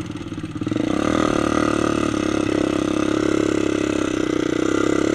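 Single-cylinder four-stroke ATV engine running, picking up about a second in and then holding steady.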